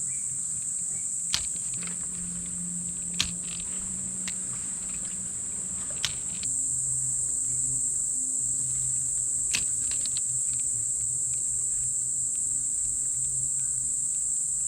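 Rainforest insects droning in a steady, high-pitched chorus, with a few sharp clicks now and then.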